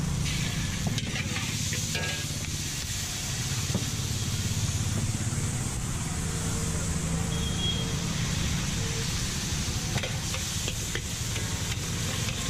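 Vegetables sizzling in a hot iron wok, with the metal spatula now and then knocking and scraping against the pan, over a steady low rumble.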